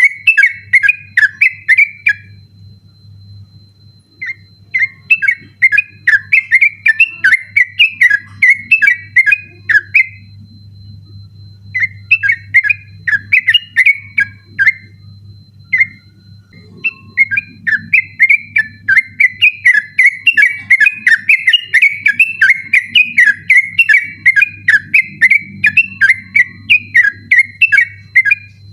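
Trucukan (yellow-vented bulbul) singing a fast, unbroken run of whistled notes in the 'ropel' style, in long bouts broken by three short pauses. A faint steady hum runs underneath.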